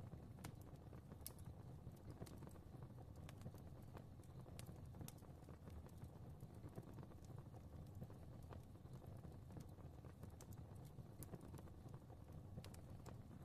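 Fire crackling softly: irregular small pops and snaps over a low, steady rumble of flames.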